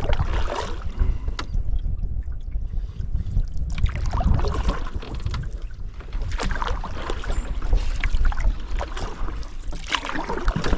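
Canoe paddle strokes swishing and splashing through lake water every few seconds, over a steady low rumble of wind on the microphone.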